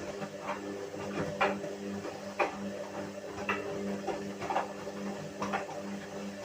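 Whirlpool washing machine running a wash cycle: a steady motor hum with a short, sharp sound about once a second.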